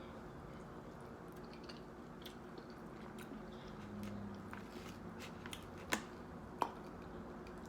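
A person chewing and eating soft food (fufu with spinach saka saka and okra stew) close to the microphone, with faint wet mouth sounds and small clicks, two sharper clicks near the end.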